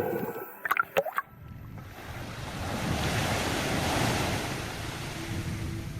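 Rush of ocean surf swelling up and fading away, with a few brief gliding tones about a second in.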